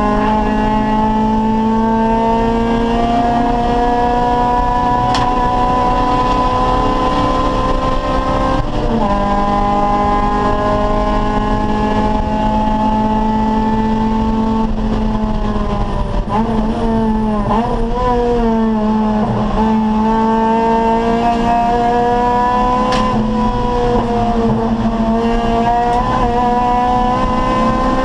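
Acura Integra's four-cylinder VTEC engine pulling hard at racing speed. The revs climb steadily and drop suddenly at an upshift about nine seconds in, then fall away. Quick up-and-down rev changes around the middle are typical of downshifting under braking, and a long climb ends in another upshift near the end.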